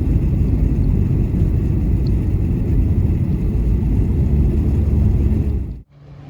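Loud, low rumbling noise of a car in motion. It cuts off abruptly near the end, and a quieter steady hum follows.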